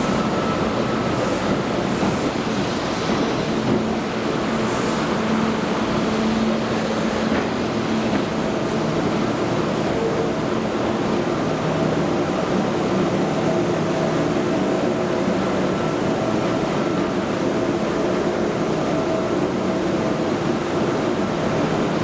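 Steady rumble and hiss of a moving vehicle, with faint low hums rising and fading.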